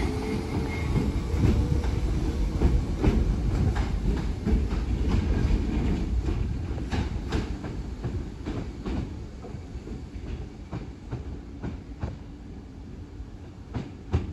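Class 508 electric multiple unit pulling away, its rumble fading over the second half, with wheels clacking over rail joints in a run of clicks.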